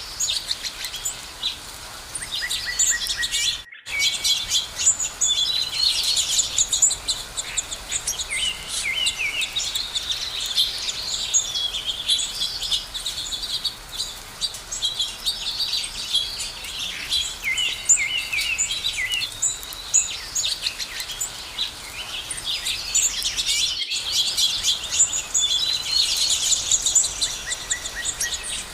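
Several songbirds chirping and singing at once, a busy chorus of short high chirps and trills with no single bird standing out.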